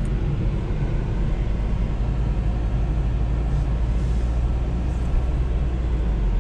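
Steady low rumble of a car's engine and road noise heard from inside the cabin as it rolls slowly.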